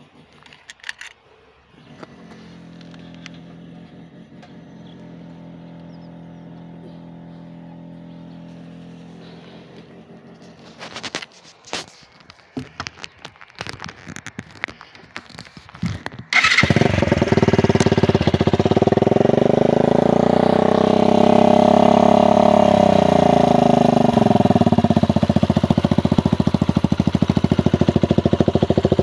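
Suzuki GN125's single-cylinder four-stroke engine catching suddenly about sixteen seconds in after a faint steady hum and a run of clicks and knocks. It revs up once and back down, then settles into a steady idle.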